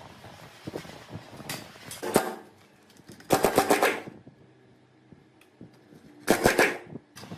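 Short bursts of rapid mechanical rattling from a power tool: three bursts, the loudest about halfway through and near the end.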